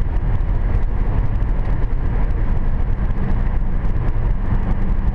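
Steady road noise inside a 2010 Hyundai Sonata V6 cruising at highway speed: tyres running on wet pavement over the engine's low hum.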